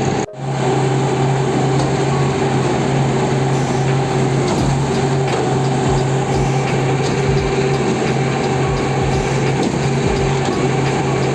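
Truck engine running steadily at a constant speed, driving concrete pumping equipment. A brief dip comes just after the start, and scattered low thuds occur from about four seconds in.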